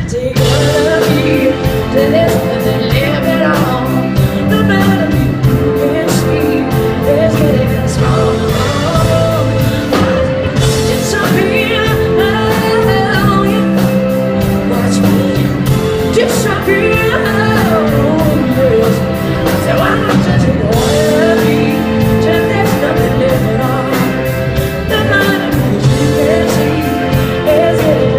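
Live soul-rock band playing a loud instrumental stretch: drums keeping a steady beat under bass, held chords and horns, with a lead line bending up and down over the top.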